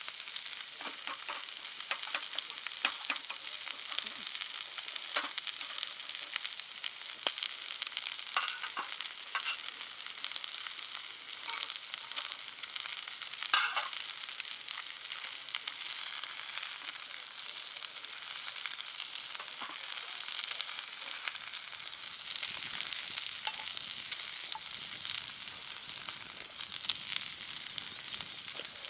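Meat sizzling on a hot cast-iron Jingisukan grill pan: a steady frying hiss, dotted with frequent small pops and crackles, one sharper pop about halfway through.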